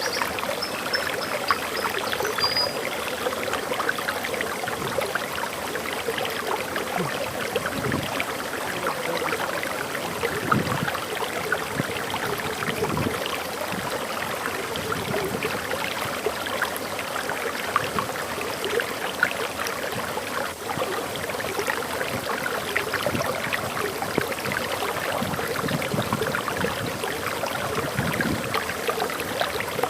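Water flowing over a waterfall: a steady rushing splash with no let-up. A bird gives a brief high chirp about two seconds in.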